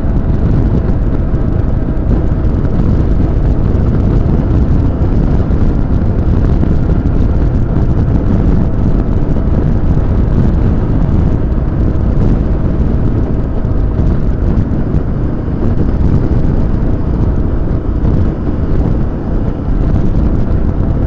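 Motorcycle riding at a steady speed: a continuous engine drone with a faint steady whine, under heavy wind rush on an action-camera microphone.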